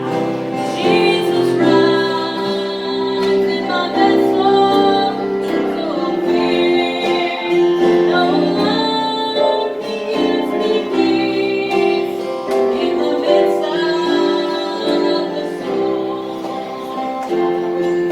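Gospel song sung by a woman's voice over instrumental accompaniment, with held notes changing pitch.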